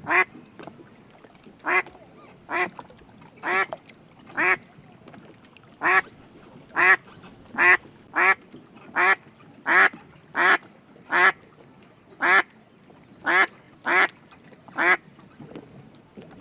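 A duck quacking over and over: about seventeen short, single quacks, roughly one a second and unevenly spaced.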